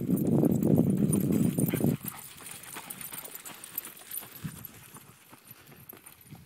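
Footfalls of a person running with dogs. A loud, dense rumble fills the first two seconds, then lighter scattered steps and ticks follow.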